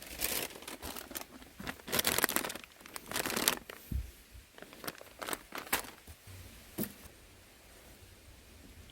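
Crinkly material being torn and crumpled by hand: a run of loud rustling rips over the first few seconds, then a few shorter crackles and clicks that die away about seven seconds in.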